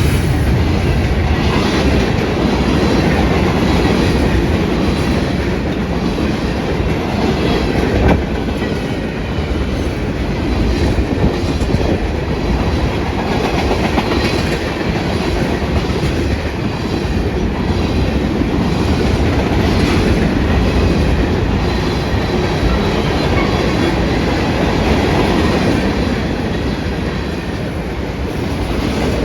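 A train's cars rolling past at speed: a steady heavy rumble with the clickety-clack of wheels passing over rail joints.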